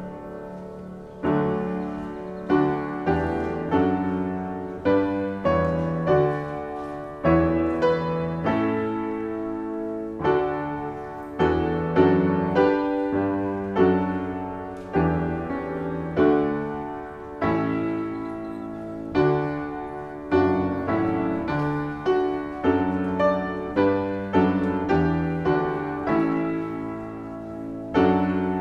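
Piano playing slow chordal music, each chord struck and left to ring and fade before the next.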